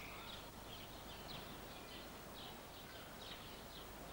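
Faint birds chirping in short, repeated calls over a low steady hum.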